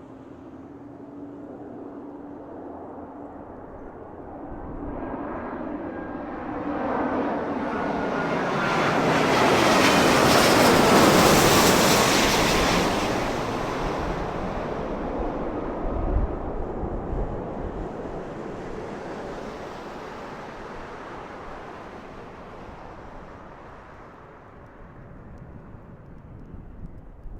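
Airbus A350-900 jet airliner on approach passing low overhead, its Rolls-Royce Trent XWB engines rising to a loud rush about ten seconds in and then fading slowly. A whine drops in pitch as it passes.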